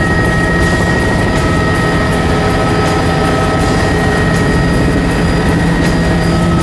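Helicopter running close by: a loud, steady engine and rotor noise with a constant high whine.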